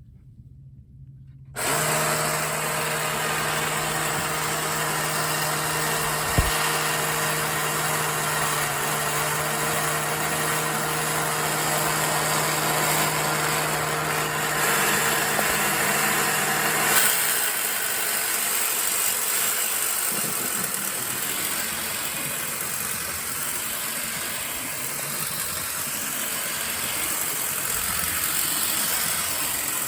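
1959 Yonezawa tin toy airplane running: its small motor and mechanism start abruptly about a second and a half in and whir steadily with a hum, with a single click about six seconds in. Around seventeen seconds in the hum drops away and a rougher steady whir carries on.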